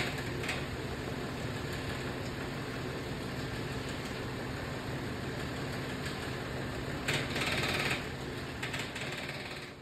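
Car engine idling with a steady low hum, with a brief rush of higher-pitched noise about seven seconds in.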